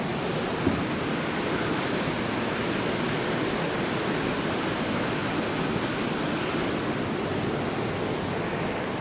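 Steady rushing of turbulent water churning in a canal lock chamber as it fills and lifts the boat.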